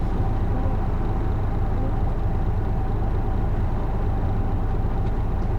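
Isuzu Erga city bus heard from inside while under way: its six-cylinder diesel engine and the road noise make a steady low rumble, with a faint steady whine on top.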